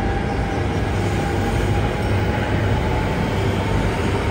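Yamagata Shinkansen Tsubasa train pulling out of the station past the listener: a steady rumble of the cars rolling on the rails. A faint motor whine rises slowly in pitch as the train picks up speed.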